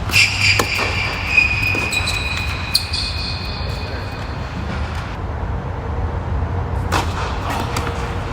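Tennis balls struck by rackets during a doubles rally: sharp knocks over a steady low outdoor rumble. A high steady whine sounds for the first five seconds or so.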